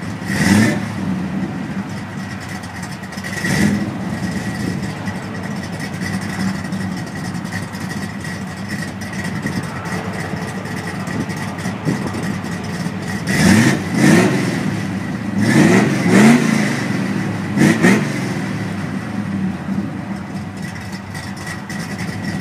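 Classic car engine idling through its exhaust and revved in short blips: one near the start, one a few seconds later, and a run of about five quick revs two-thirds of the way through.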